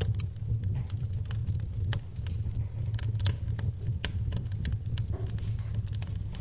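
Wood fire in a fireplace crackling, with irregular sharp pops over a steady low rumble of the flames, and a soft even hiss of rain behind it.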